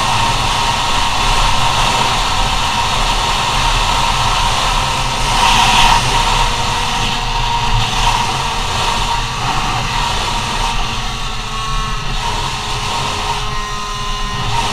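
Go-Ped scooter's CR70 engine running at high revs under way, a steady buzzing whine that slowly sinks in pitch through the second half, under heavy wind rush on the microphone.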